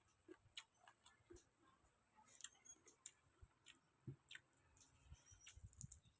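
Near silence with faint, irregular small clicks and a few soft low taps toward the end: someone eating quietly, chewing and handling grilled field rat by hand.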